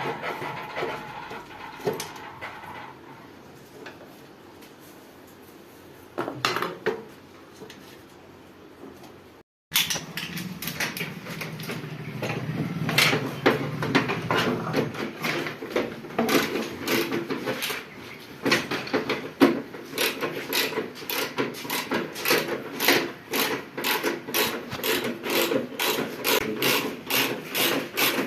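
Hard objects, metal by the sound's character, clinking and scraping against each other. After a brief break it becomes a quick, fairly regular run of strokes, about two to three a second.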